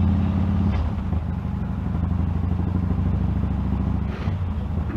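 Motorcycle engine running steadily, its note shifting slightly about a second in.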